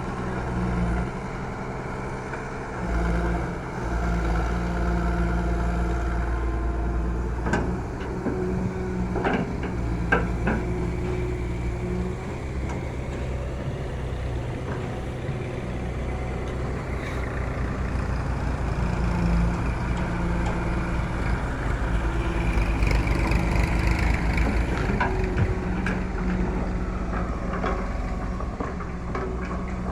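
Case JX40T tractor engine running steadily, with a few sharp knocks and clatters along the way.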